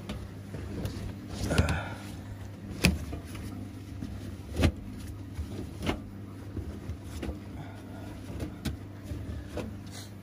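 Washing machine running: a steady motor hum with irregular knocks from the turning drum every second or two.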